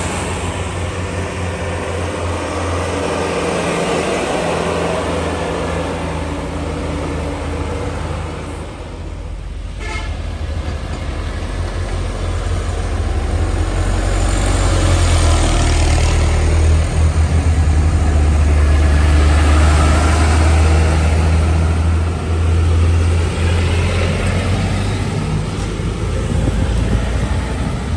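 Heavy diesel trucks' engines running past one after another. There is a brief lull about nine seconds in, then a second, louder truck passes in the middle of the stretch.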